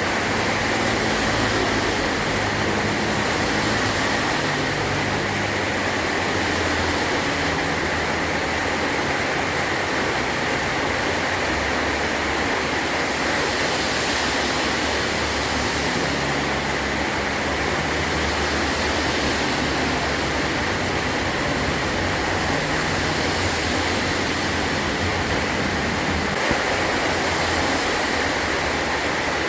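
Heavy rain falling steadily on a metal tin roof, an even hiss of drops, with a low rumble swelling and fading underneath at times.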